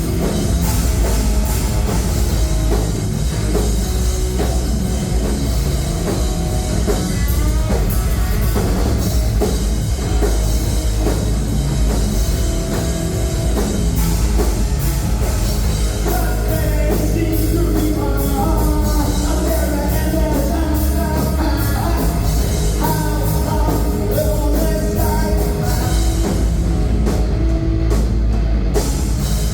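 A rock band playing live and loud, with a drum kit and singing.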